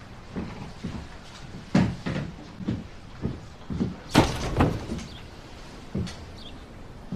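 A series of short knocks and thumps, like a door and objects being handled, with the loudest clatter about four seconds in.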